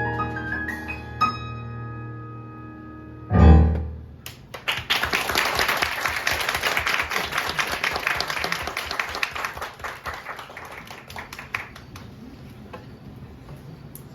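Keyboard notes ring out and fade at the end of a song, closed by one short, loud, low hit about three seconds in. Audience applause follows and dies down near the end.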